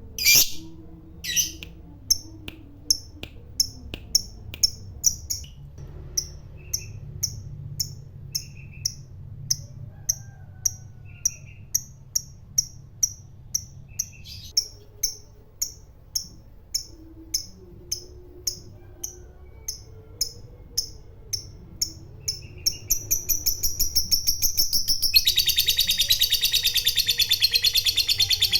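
Lovebird singing: sharp, high chirps repeat about twice a second, quicken, and about 23 seconds in run together into a long, fast, loud chattering trill, the 'ngekek panjang' that fighter lovebirds are kept for.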